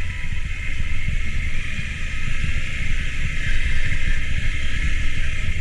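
A vehicle driving down a steep, rough road, giving a steady low rumble of engine and tyres with an even hiss above it.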